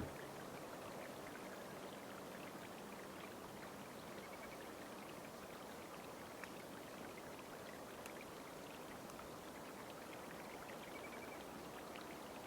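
Faint steady outdoor ambience: an even rushing hiss, with a few faint, short, high chirps scattered through it.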